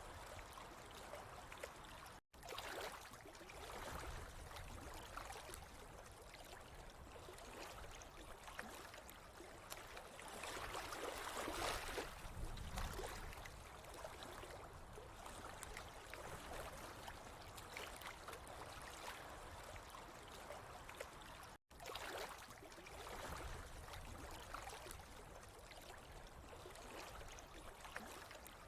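Flowing, trickling water running steadily, swelling a little about a third of the way in. The sound drops out for an instant twice.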